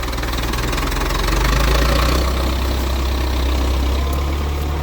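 An engine idling steadily, a low even hum with a constant noisy hiss over it.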